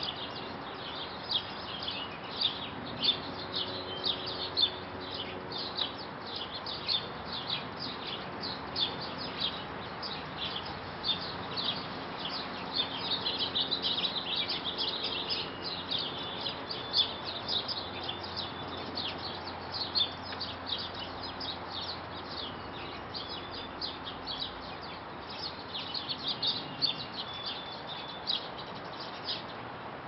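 Small birds chirping: many short, high notes, overlapping and busiest about halfway through.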